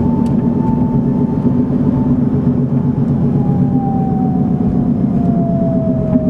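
Steady road and engine noise of a moving car, heard inside the cabin. A thin steady tone sounds over it and starts slowly falling in pitch about halfway through.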